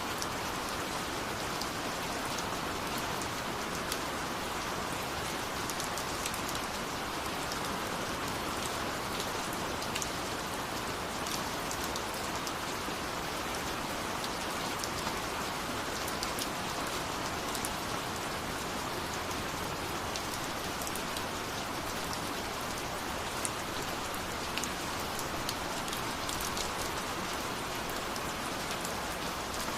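Steady rain falling, an even hiss with many fine scattered drop ticks.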